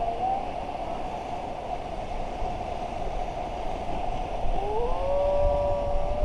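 Steady rushing of river rapids. About four and a half seconds in, a person's long drawn-out shout rises in pitch and then holds.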